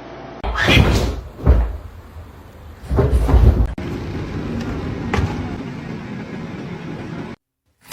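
Several dull thuds and knocks, like a cupboard door or an object being knocked about. The heaviest come about half a second in, around one and a half seconds, and about three seconds in, followed by a lighter knock about five seconds in. The sound cuts off abruptly near the end.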